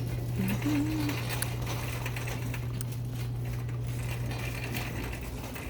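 Light, irregular clicking and rattling over a steady low hum, with a brief low tone about half a second in.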